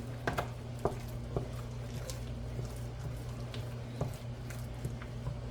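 A few light clicks and soft wet mouth sounds of someone eating potato salad from a fork, over a steady low hum.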